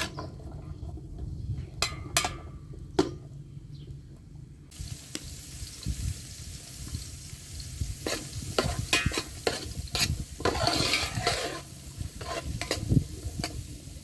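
Food frying in a pot while a spoon stirs it, clicking and knocking against the pot. The sizzling starts abruptly about a third of the way in.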